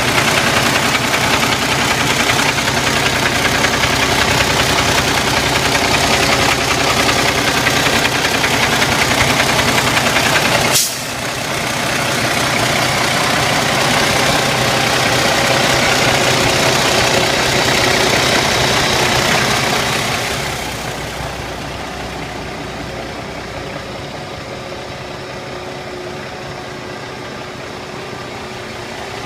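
Cummins ISX inline-six diesel engine of a Kenworth T660 idling steadily. About 11 s in there is a sharp click and the sound suddenly gets quieter, and after about 20 s it fades further and loses its hiss.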